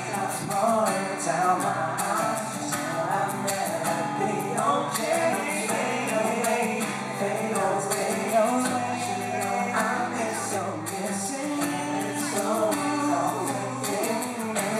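Live acoustic performance of a pop ballad, with male voices singing over the instruments.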